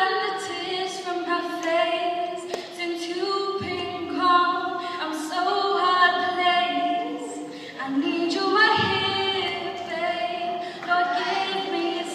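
A female voice singing a cappella, holding and bending long melodic notes with no accompaniment.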